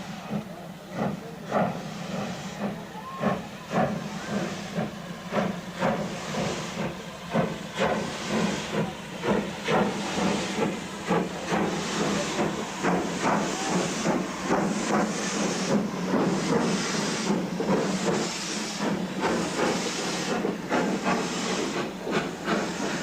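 SPS-class steam locomotive pulling away, its exhaust beating in a quick steady rhythm over a continuous hiss of steam, growing a little louder.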